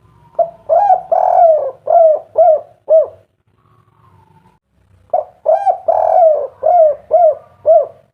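Spotted dove (tekukur) cooing in the 'kuk 3' song type. It sings two phrases, each made of two short coos, one long drawn-out coo and then three short coos.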